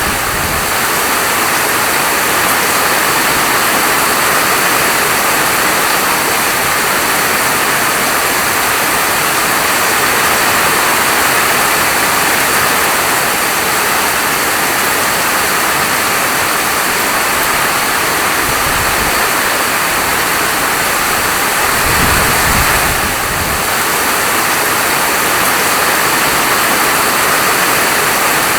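Steady heavy rain falling, a dense even hiss, with a brief low rumble about three-quarters of the way through.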